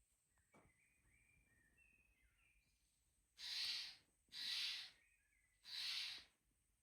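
Steller's jay giving three harsh, raspy calls about a second apart, starting about halfway in, after a few faint thin chirps from small birds.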